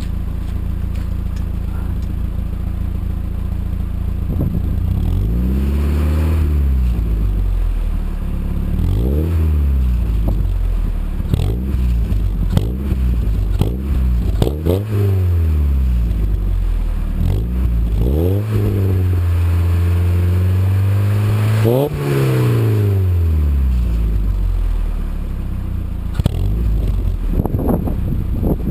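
1998 Mazda MX-5's 1.8-litre four-cylinder engine through an IL Motorsports cat-back exhaust, idling and then blipped repeatedly, each rev rising and falling back to idle. One rev in the middle is held steady at higher revs for a few seconds before dropping back.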